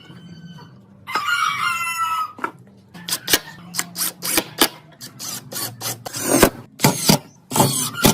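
A rooster crows once, about a second in, with a long call. It is followed by a run of sharp, irregular knocks, and another crow starts near the end.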